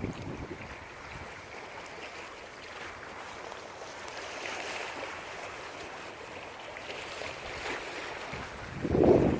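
Steady hiss of rain and wind during a thunderstorm, with a gust buffeting the microphone about nine seconds in.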